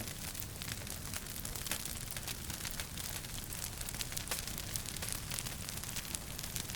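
Wood fire crackling in a fireplace: many small, quick crackles and pops over a steady low rumble of the flames.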